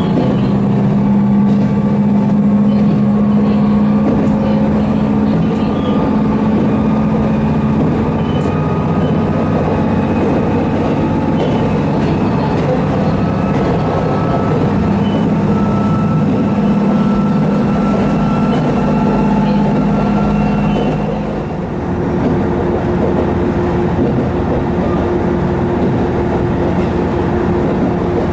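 Interior of a diesel railcar running on the line: a steady engine drone over track rumble. About 21 seconds in, the drone dips briefly and settles on a different, higher note.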